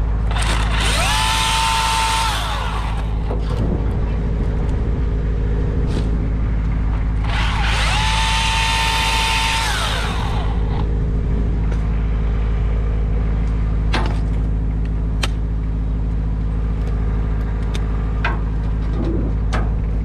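Milwaukee battery chainsaw run twice: each time its electric motor whines up to a steady high pitch, holds for about two seconds, then winds down. A steady low engine drone runs underneath, with a few sharp clicks in the second half.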